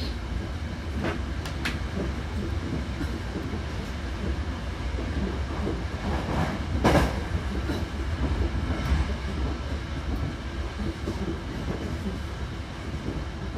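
Hankyu Kyoto Line train running, heard from inside the car by the doors: a steady low rumble of wheels on rail, with a couple of short clicks about a second in and a brief louder rush of noise about seven seconds in.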